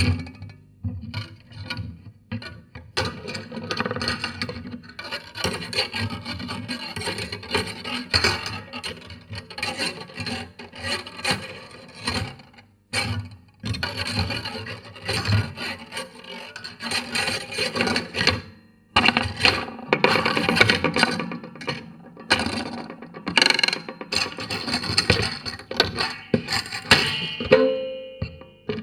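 Homemade wooden noise box heard through a piezo contact microphone: the metal bits on its lid (bolts, springs, steel wire, washers) are scraped, rubbed and rattled in dense, busy runs, with brief breaks about 13 and 19 seconds in. Near the end a few ringing pitched tones sound over the scraping.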